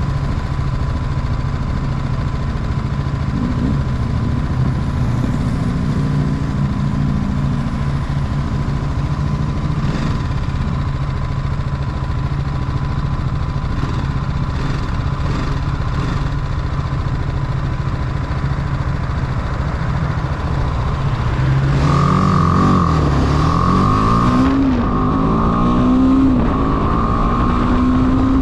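Motorcycle engine running steadily while riding, then rising and falling in pitch over and over near the end as the rider revs and changes speed. A pulsing high beep repeats during the last few seconds.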